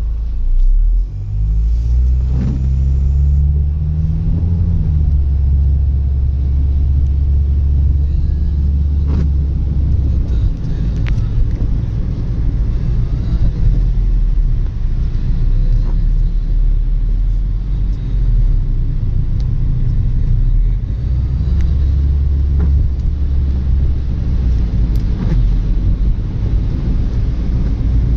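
Motor vehicle on a wet road in the rain: a heavy, steady low rumble with a hiss of tyres and rain over it. In the first few seconds an engine note climbs in steps, as when a car accelerates through its gears.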